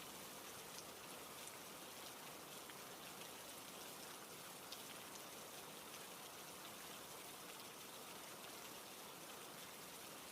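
Faint, steady rain, with scattered drops ticking.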